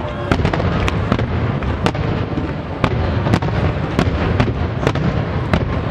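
Aerial firework shells bursting in a rapid barrage: sharp bangs about twice a second over a continuous rumble of overlapping explosions, typical of a display's finale.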